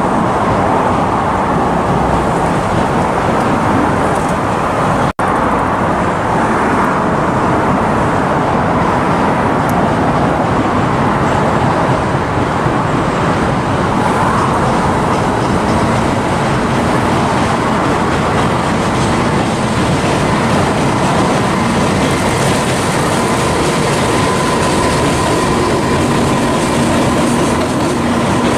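Freight train running past on the line, a loud steady rumble with wheels clicking over rail joints and a faint steady wheel squeal. The sound cuts out for an instant about five seconds in.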